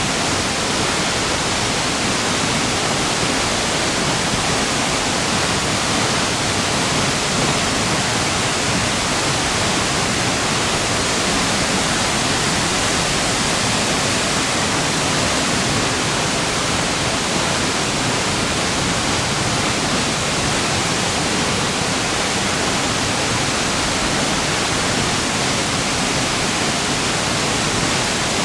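Waterfall pouring into its plunge pool, heard close up as a loud, steady rush of falling water.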